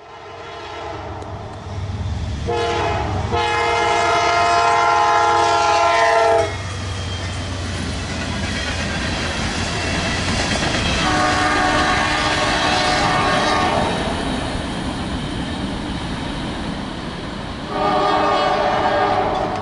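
Norfolk Southern freight locomotive sounding its multi-chime air horn: a short blast, then three long ones, over the steady rumble of the passing train.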